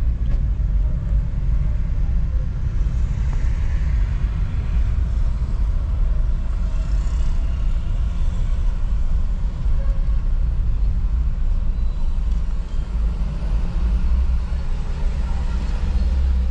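Steady low rumble of a car driving along, the engine and road noise heard from inside the cabin.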